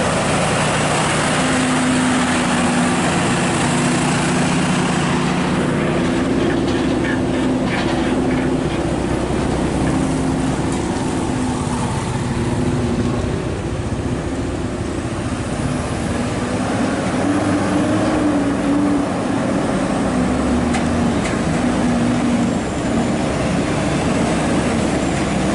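Scania R580's V8 diesel engine droning steadily under way with road noise, its pitch shifting slightly up and down.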